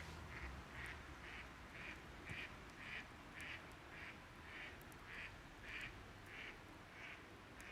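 An animal calling in an even series of short, high-pitched calls, about two a second, over the steady hush of a river, with a few faint crackles from the campfire.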